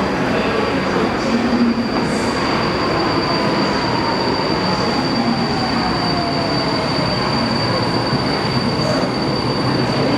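Incheon Metro Line 2 Series 2000 train running through the station, its wheels and running gear making a loud, steady rumble with a high, steady squeal. A motor whine falls in pitch from about two seconds in, as the train slows.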